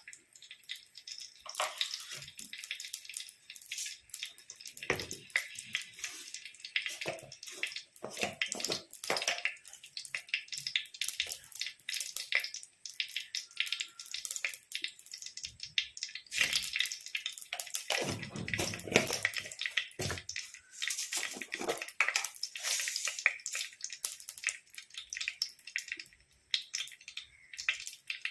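Tempering (thalippu) in hot oil: a steady sizzle with dense, irregular crackling and popping. A fuller, louder stretch of sizzling comes about two-thirds of the way through.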